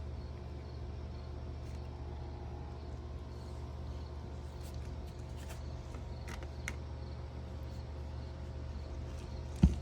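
Steady low background hum with a few faint, scattered clicks, and one short knock near the end.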